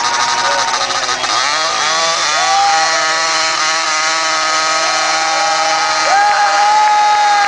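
Several motorcycle engines running at high revs at once, their overlapping notes rising, holding and falling as the throttles open and close. One note climbs about two seconds in and holds high, and another rises again about six seconds in.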